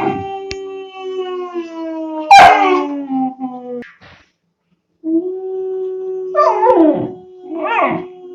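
Two-month-old German Shepherd puppy howling. A long, steady howl slides slowly down in pitch and breaks off, and after about a second's pause a second long howl begins. Shorter, wavering howls cut in over the long ones three times, the first of them the loudest.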